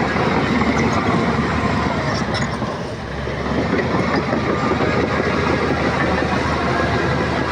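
Shantui crawler bulldozer's diesel engine running under load with its steel tracks clattering. The sound eases briefly about three seconds in, then picks up again.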